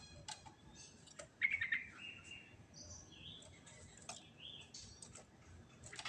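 Yellow-vented bulbul (trucukan) singing: scattered short chirps and whistled notes, with a louder quick run of notes about one and a half seconds in, followed by a briefly held whistle.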